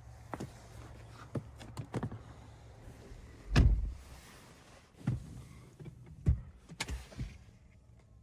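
A string of clicks and knocks inside a Cadillac Escalade's cabin over a faint low hum, the loudest a heavy thump about three and a half seconds in.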